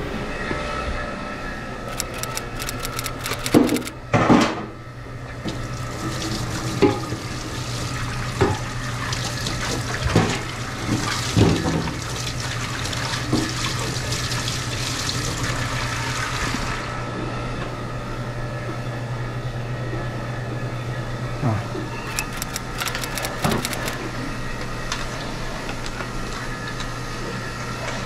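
Faucet water running into a stainless steel sink for several seconds midway while a plastic ice-machine water distribution tube is rinsed under it. Knocks and clatters of the plastic parts against the sink come before and after, over a steady low machine hum.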